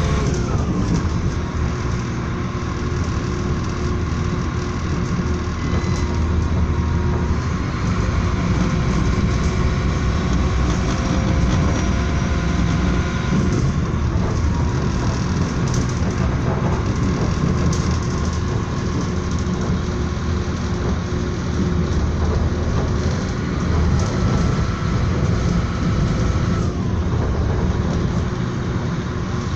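Moving passenger train heard from inside the carriage: a steady, loud rumble of the running train with a faint whine that slides in pitch twice, once at the start and once near the end.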